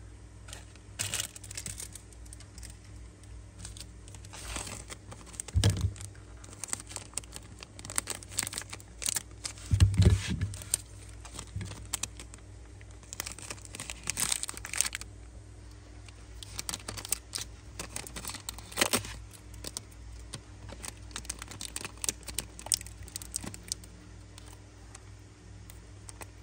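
Handling noise: packaging crinkling and rustling with scattered small clicks and knocks as Zippo lighters and their boxes are handled. Two duller thumps come about six and ten seconds in.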